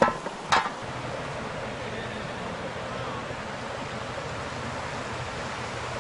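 Steady rushing of a river. Two sharp knocks come within the first second, the second one louder.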